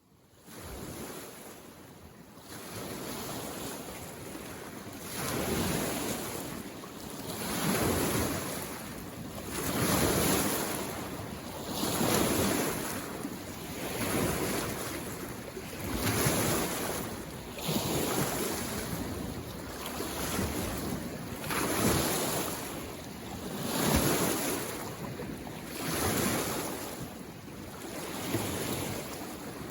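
Small waves on a mountain lake washing in against the shore, one wash roughly every two seconds in a steady rhythm.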